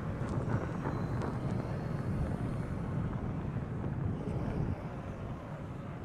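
Blizzard wind blowing steadily, with a low rumble from the gusts buffeting the microphone; it eases slightly near the end.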